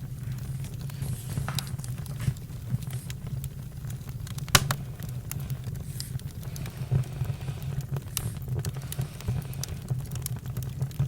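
Campfire crackling, with frequent sharp pops and snaps over a steady low rumble; the loudest pop comes about four and a half seconds in.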